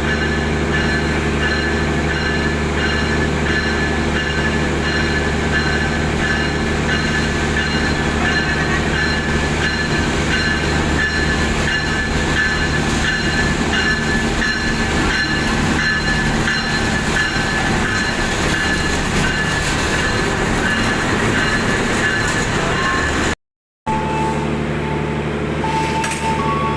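Pangrango passenger train running steadily, a constant low drone with a steady high whine above it. It breaks off for a moment near the end.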